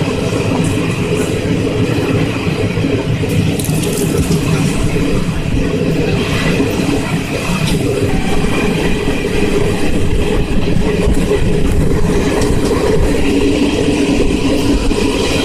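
Passenger train running on the rails: a steady rumble of the moving coaches, with faint wheel clatter now and then.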